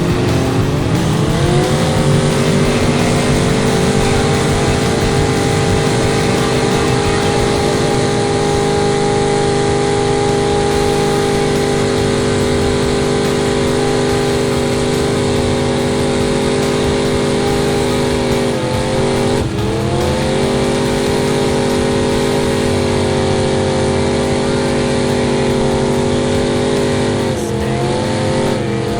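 Truck engine revved up and held at high, steady revs under load. The pitch dips briefly and climbs back twice, about two-thirds of the way through and near the end.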